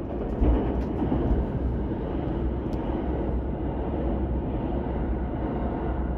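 Train rushing past, heard from inside a train: a loud, even roar of wheels and rails that comes up suddenly and dies away after about six and a half seconds, with a few light clicks.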